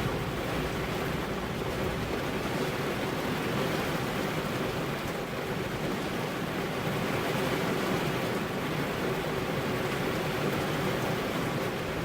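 Steady rainfall, an even hiss with no single drops standing out.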